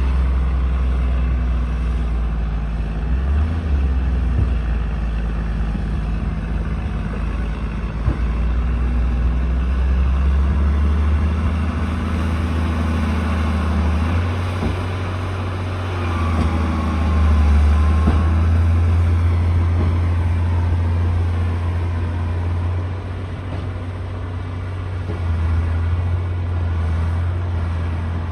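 D60 bulldozer's diesel engine running hard through land clearing, its low drone rising and falling with the load, loudest a little past the middle, where a short high whine comes and goes.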